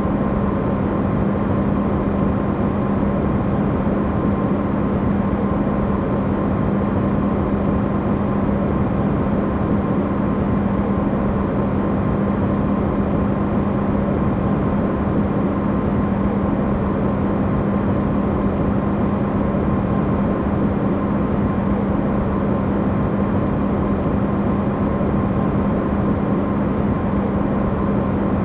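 Amplified running noise of an Electrolux side-by-side refrigerator: a steady low rushing hum with a constant tone near 200 Hz and a fainter one higher up, unchanging throughout.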